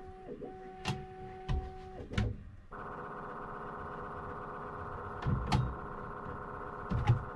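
Bambu Lab P1S 3D printer running, its motors giving a steady two-tone hum that gives way about two and a half seconds in to a louder, fuller whine of several steady tones. Several sharp clicks and knocks sound over it.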